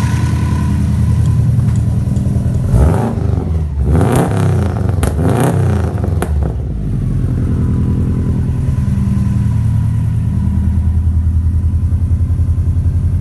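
2004 Subaru Impreza WRX STI's turbocharged 2.5-litre flat-four (EJ257) idling steadily. About three seconds in it is revved in several quick blips, then it drops back to a steady idle.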